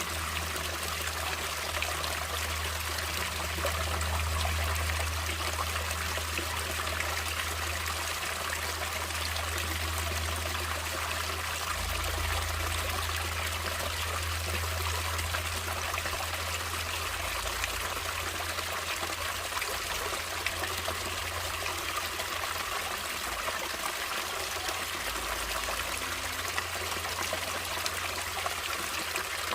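Stream water flowing and trickling steadily, with a low rumble underneath.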